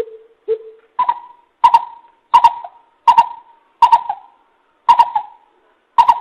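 A coucal (bìm bịp) calling a series of deep, hollow hoots at about one and a half a second. The first few notes are lower and the rest step up to a higher pitch.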